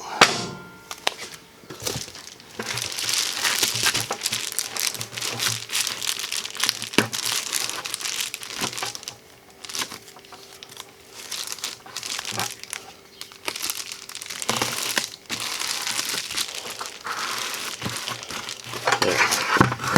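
Reflective foil insulation crinkling and rustling as it is handled and wrapped around a bucket, in long stretches with short pauses and a few sharp clicks.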